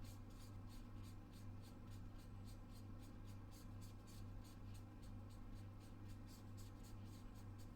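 Near silence: a faint low hum with a quick, even, faint ticking, about five ticks a second.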